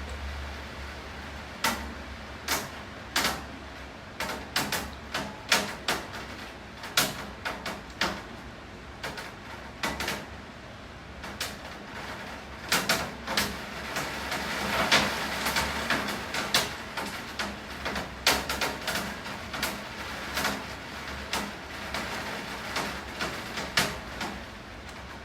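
Rain falling, with heavy drops tapping sharply and irregularly on a hard surface close by, at times several a second, over a steady rain hiss. The rain swells for a few seconds about halfway through.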